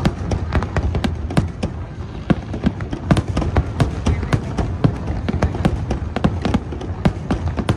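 Fireworks display: aerial shells bursting in quick, irregular succession, several sharp bangs and pops a second over a continuous low rumble.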